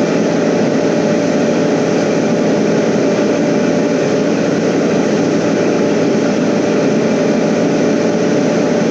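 Trailer refrigeration (reefer) unit running: a loud, steady drone with an even hum.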